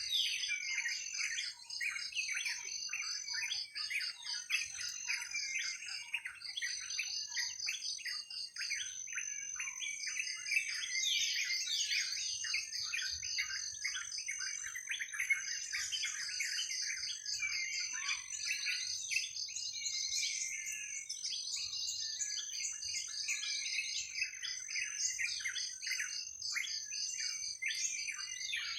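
A dense chorus of many forest birds chirping and singing at once, over a steady high-pitched trill.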